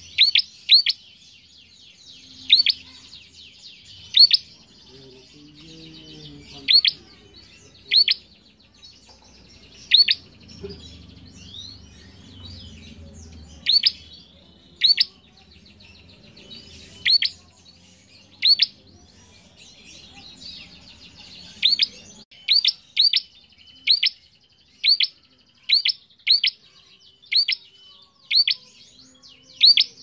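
Prenjak calling: loud, sharp single chip notes, one every second or two, coming closer together to about two a second near the end, over a fainter fast trill.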